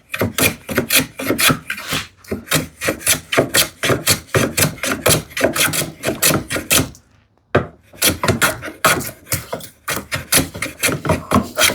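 Hand plane taking quick, short strokes across wood, about three or four a second, with a brief pause about seven seconds in, surface planing glued-in filler pieces flush.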